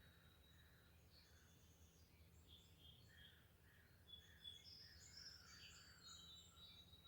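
Faint birdsong at a campsite: several small birds chirping and trilling in short high notes, a little louder after about four seconds. A thin, steady high whine runs beneath them.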